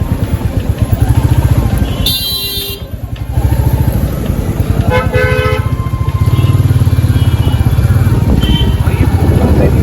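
Motorcycle engine running steadily under the rider, a low pulsing beat that eases off briefly about two and a half seconds in. A vehicle horn honks briefly twice, about two seconds in and again about five seconds in.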